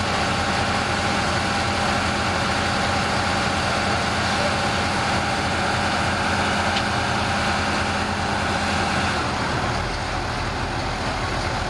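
Bulldozer diesel engine running steadily at idle; its note shifts slightly near the end.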